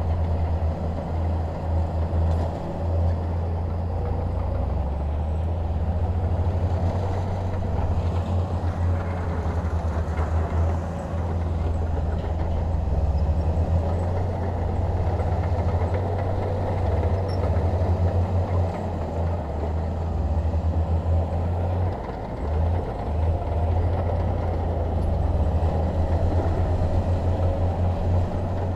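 A bulldozer's diesel engine running steadily, with a deep, continuous low drone that wavers slightly in level.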